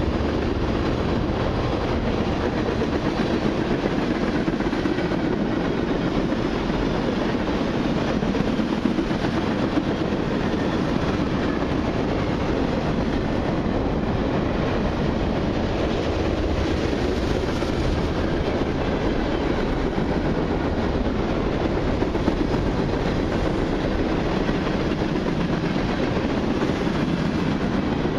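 Cars of a long mixed freight train (tank cars, covered hoppers and boxcars) rolling past: a steady, unbroken noise of steel wheels on the rails that neither rises nor fades.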